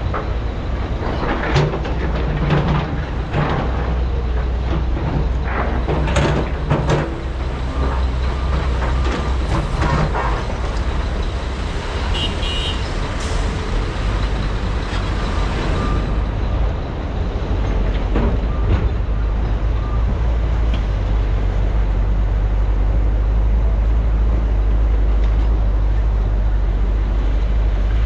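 Heavy diesel excavators and trucks running under load, with repeated knocks and clanks of digging and dumping material into the trucks over the first half. Later the engines settle into a steady low drone.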